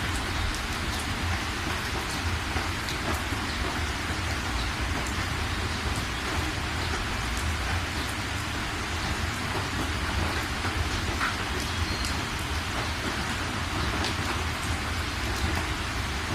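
Steady rain falling, with a dense hiss, scattered sharp drop ticks and a continuous low rumble underneath.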